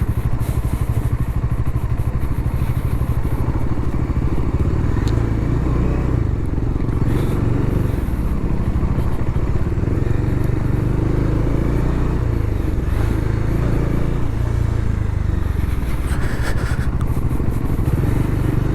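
Bajaj Dominar motorcycle riding along, its engine running steadily with small rises and falls in pitch under wind and road noise.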